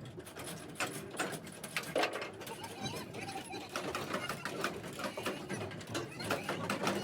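Irregular light clicks and knocks, several a second, with faint voices in the background.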